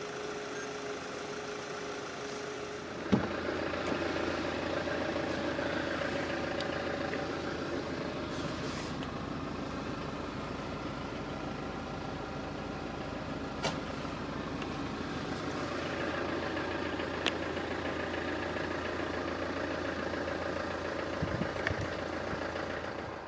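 BMW X3 20d's four-cylinder diesel engine idling steadily, with a click about three seconds in, after which the hum is a little louder, and a couple of faint clicks later.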